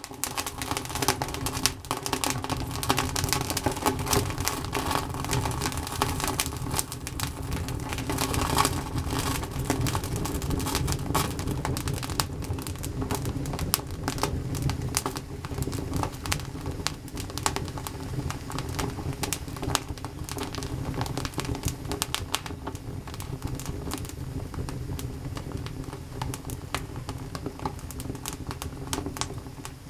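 Wood campfire crackling: a dense, irregular run of sharp pops and snaps over a steady low rush.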